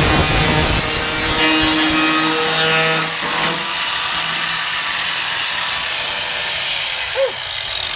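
4.5-inch angle grinder with a Type 27 metal grinding wheel grinding rusted sheet steel on a pickup's wheel arch, a steady grinding whine. About 7 seconds in the grinder is let off and its whine falls as it spins down.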